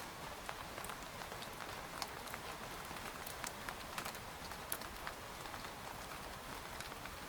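Rain falling on a tent: a steady hiss of light rain with frequent, irregular individual drops tapping on the fabric.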